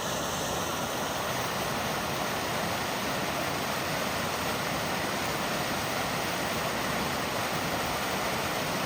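Small mountain waterfall rushing steadily, an even hiss of falling water.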